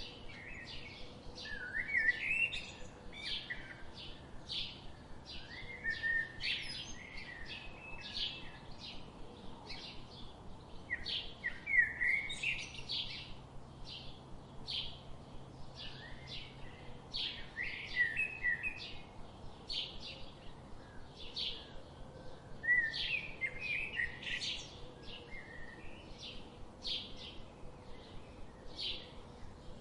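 Songbirds singing: a short high chirp repeated about once a second, with bursts of lower, warbling song every few seconds.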